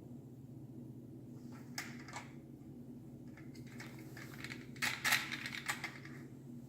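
Sharp plastic clicks and rattles from the coffee maker's capsule carousel and pods being handled, a short cluster about two seconds in and a louder run around five seconds, over a steady low hum.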